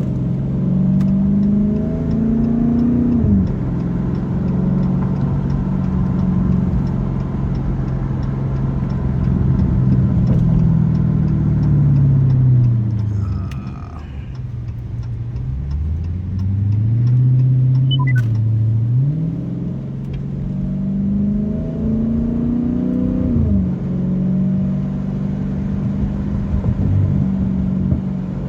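Straight-piped 392 (6.4-litre) HEMI V8 of a 2023 Dodge Challenger Scat Pack under way. Its exhaust note climbs under acceleration and drops sharply at upshifts about three seconds in and again near the end. About halfway through it eases off to a low note, then pulls away again.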